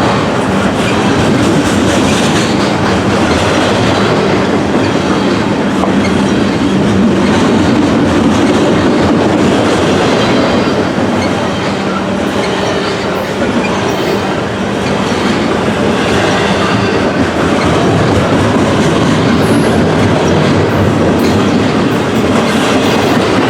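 Norfolk Southern freight train 15T rolling past, its steel wheels clattering steadily on the rails.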